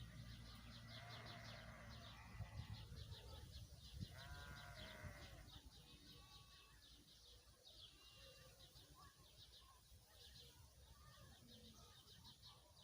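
Faint rural ambience of high, rapid chirping that keeps repeating, with a livestock bleat about four seconds in.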